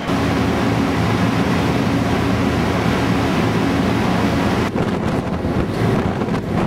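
Ship's engines droning steadily with a low, even hum, under wind blowing across the microphone.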